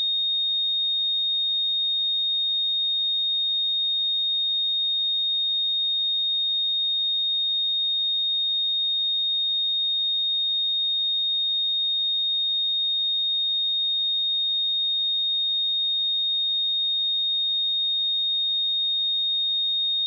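A steady, pure 3702 Hz sine-wave test tone, a single high-pitched unchanging pitch held throughout.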